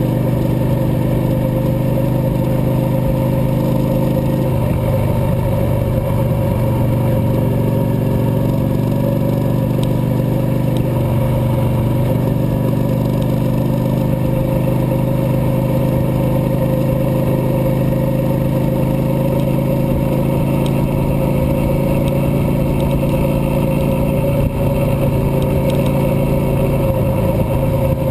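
Cruiser motorcycle engine running steadily under way, its pitch shifting only slightly.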